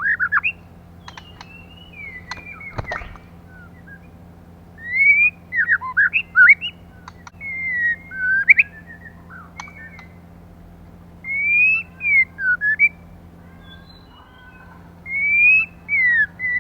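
Female white-rumped shama giving short whistled phrases of rising and falling slides in bouts every few seconds, the kind of female call played as a lure to excite males. A steady low hum runs underneath, with a few sharp clicks about one to three seconds in.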